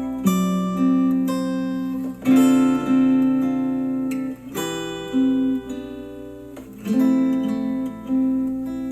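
Acoustic guitar music played back through a Sony SRS-XB43 Bluetooth speaker: plucked chords and notes struck every half second or so, each left to ring and fade.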